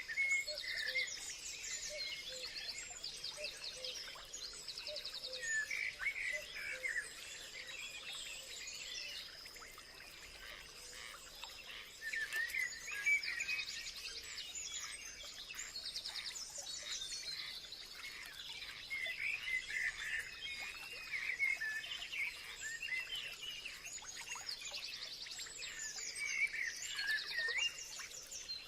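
Several birds chirping and singing at once in overlapping trills and short whistled calls, over a steady high-pitched insect-like drone.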